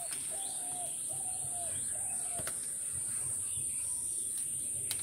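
A bird calling four times in quick succession, short level notes that dip at the end, over a steady high-pitched hiss; a single click about halfway.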